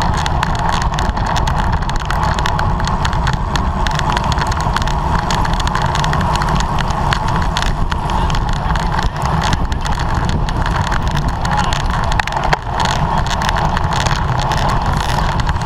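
Steady wind rush and road noise from a road bicycle ridden at race speed, without a break.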